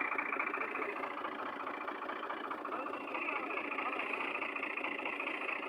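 Fiat tractor's diesel engine running steadily at low revs.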